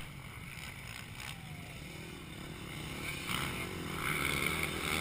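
Motocross bikes' engines revving on the track, the sound rising and falling, growing louder from about three seconds in.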